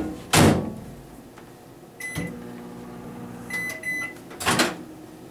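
Microwave oven in use. The door shuts with a thump and a keypad beeps once. The oven hums for about a second and a half, two beeps sound, and the door gives another thump near the end.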